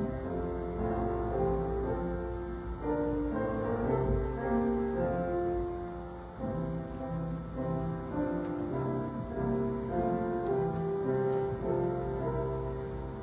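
Slow instrumental church music on piano or organ-like keyboard, held notes and chords changing every second or so.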